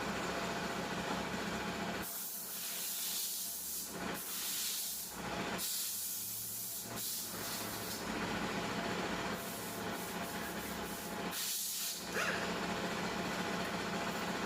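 Several bursts of high-pitched hissing, each a second or two long, like air or spray being released, over a steady low hum.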